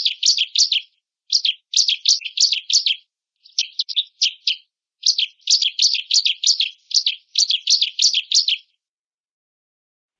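Ciblek (bar-winged prinia) singing: fast runs of high, repeated notes in bursts with short breaks, stopping about two seconds before the end.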